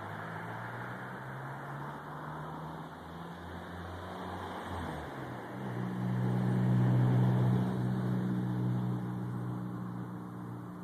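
Low engine hum of a passing motor, shifting in pitch about five seconds in, then swelling loudest a second or so later and slowly fading.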